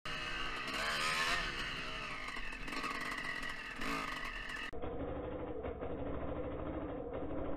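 Dirt bike engine running under load as it is ridden through rough grass, its pitch rising and falling with the throttle. About four and a half seconds in the sound turns suddenly duller and more muffled, with a heavier low end.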